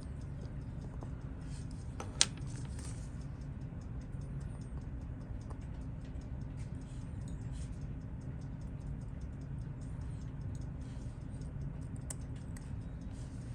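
Rapid, even ticking of a mechanical watch, with one sharp click of a tool about two seconds in, over a steady low hum.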